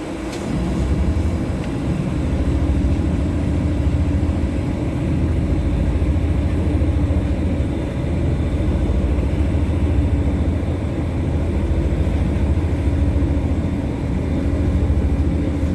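LVS-86K articulated tram running between stops, heard from inside the passenger cabin. There is a steady low rumble of the wheels and running gear with a constant hum over it.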